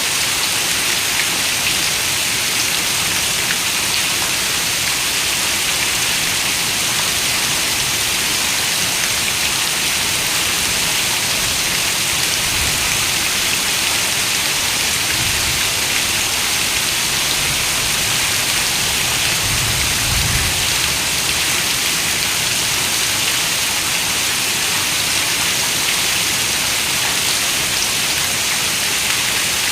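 Steady rain, a dense even hiss of many drops. Around the middle a low rumble swells and fades.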